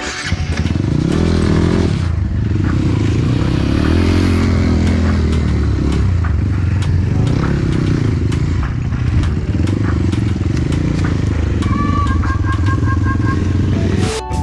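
Trail motorcycle engine running under load, its pitch rising and falling repeatedly as the throttle is worked. Near the end a short run of quick high-pitched pips sounds over it.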